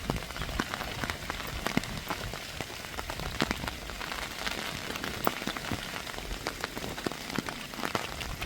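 Heavy rain striking a hard surface: a steady hiss with many sharp, irregular drop impacts.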